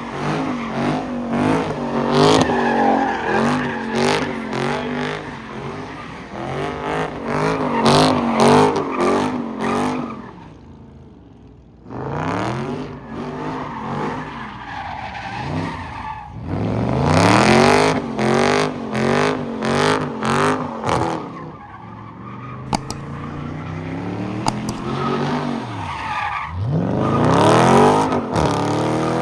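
Car engine revving hard, its pitch bouncing quickly up and down, with tires skidding and squealing as a car spins donuts; the noise drops away about ten seconds in, then picks up again with more revving.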